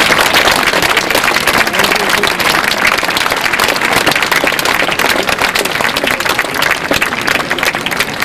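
Crowd applauding: dense, steady clapping from a large open-air audience.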